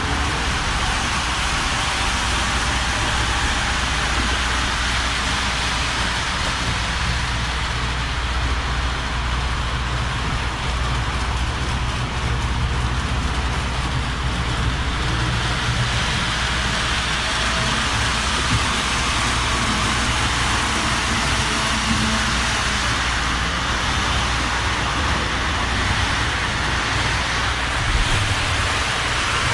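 Model electric train running along the layout's track: a steady hiss with a low hum underneath.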